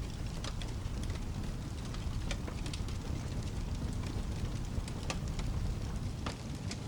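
Wood fire crackling with scattered sharp pops, over steady rain and a low continuous rumble.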